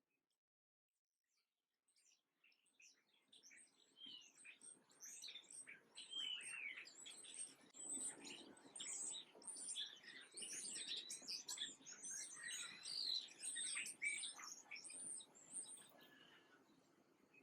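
Small birds chirping and calling, many short chirps overlapping. They come in after about two seconds of silence and thin out near the end.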